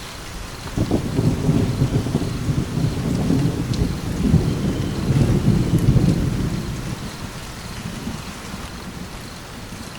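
Steady rain with a roll of thunder that breaks in with a crack just under a second in, rumbles low and heavy for several seconds, then fades away by about eight seconds in.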